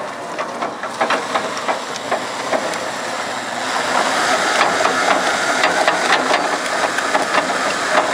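Homemade motorised spooling winch running while hauling a moose, with a steady engine-like running noise and irregular metallic clicks and knocks; it gets louder about three and a half seconds in.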